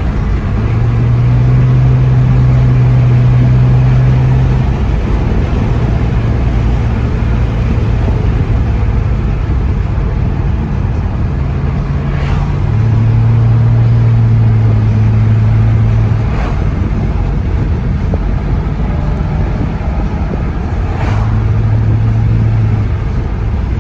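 Car engines running at a car meet: a steady low engine drone that swells and fades three times over a constant rumble of traffic noise, with three brief sharp sounds in between.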